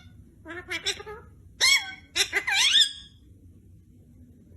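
A pet parrot giving three short, squeaky calls that slide up and down in pitch within the first three seconds, then falling quiet.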